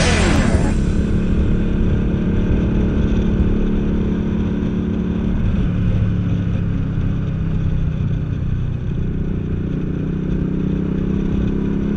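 Cruiser motorcycle engine running steadily under way. Its pitch shifts about halfway through and again near the end.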